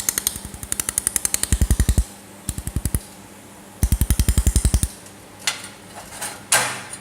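Pulsed laser welding machine firing rapid pulses in bursts, each pulse a sharp snap at about ten a second, with three runs of pulses followed by a few single shots near the end.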